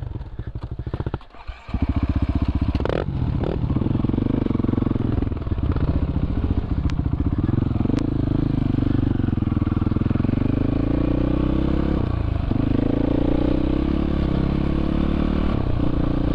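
Dirt bike engine running close up. It gets louder about two seconds in as the bike pulls away, and its pitch rises and falls with the throttle while riding.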